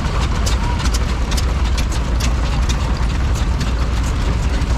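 Vintage stationary engine running, a steady low rumble with quick, sharp clicking over it several times a second.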